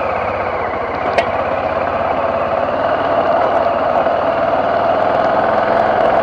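BMW F650GS motorcycle engine running steadily while riding, getting a little louder partway through. A single sharp click about a second in.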